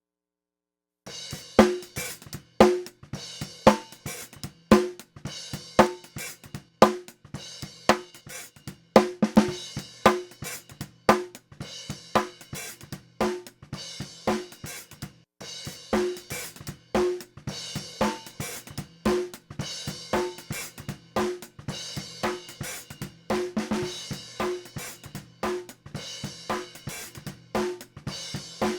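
Recorded drum kit beat of kick, snare, hi-hat and cymbals played through an HBK TSX 500-series tape saturation module. It starts about a second in, with a strong hit about once a second. After a brief break around halfway, the beat comes back with its hits less sharp.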